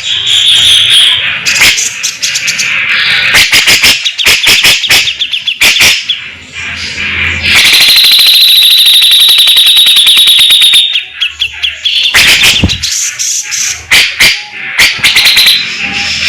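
Grey-cheeked bulbul (cucak jenggot) calling loudly: bursts of sharp, rapid chattering notes, with a long fast rattling trill of about three seconds in the middle, the harsh 'besetan' calls kept-bird owners value.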